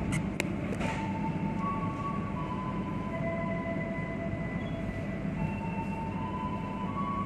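Passenger train heard from inside the coach, running with a steady low rumble as it slows into a station, with a few sharp clicks in the first second or so. Thin steady squeals at several pitches come and go over it.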